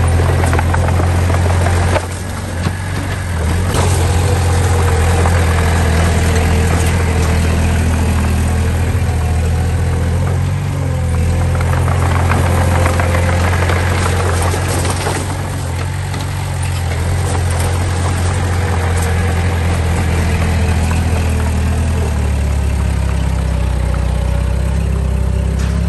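Diesel engine of heavy earthmoving machinery running steadily, dipping briefly about two seconds in and again past the middle, its low hum shifting in pitch near the end.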